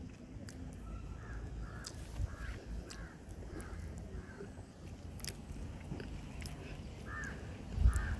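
A bird calling again and again in short calls, over a low rumble, with a thump near the end.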